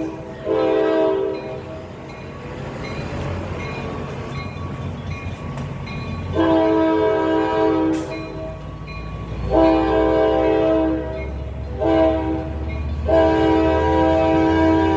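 Locomotive multi-chime air horn sounding a series of blasts: a brief one near the start, then long, long, short and a long blast held to the end, the grade-crossing signal pattern, over the low rumble of the approaching train.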